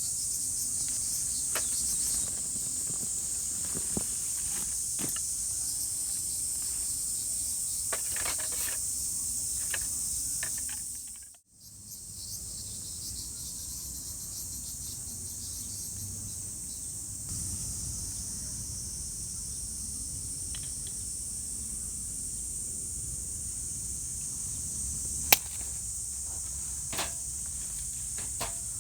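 Insects chirping in a steady high-pitched chorus, with scattered light clicks and knocks over it and one sharper click near the end. The sound dips out briefly about a third of the way in.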